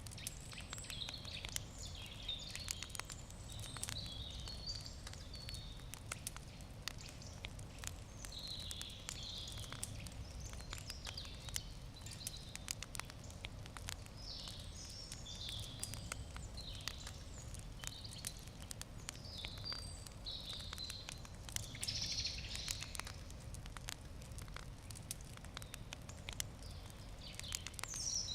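Wood campfire crackling with frequent small sharp pops, while birds chirp now and then in the background.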